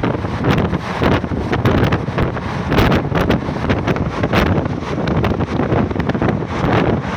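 Heavy wind buffeting the microphone over the steady rumble of a moving train, with quick irregular knocks and gusts throughout.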